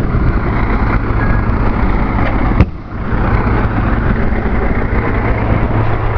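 A vehicle engine idling steadily with a low hum. A sharp click comes about two and a half seconds in, followed by a brief drop in the sound.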